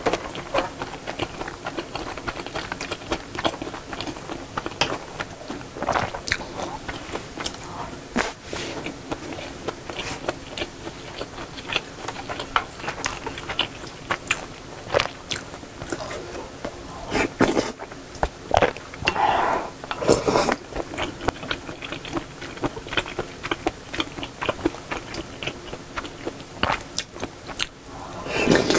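Close-miked eating: chewing and mouth sounds over mouthfuls of jjamppong noodles and shrimp fried rice, with many short clicks from the wooden spoon and bowls.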